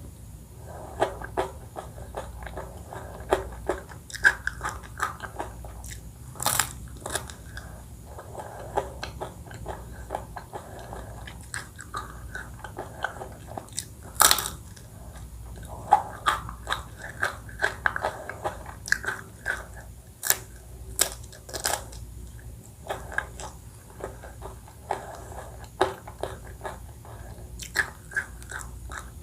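Close-miked eating sounds: repeated bites with sharp cracks and crunches, and wet chewing in between, the loudest cracks about six and fourteen seconds in.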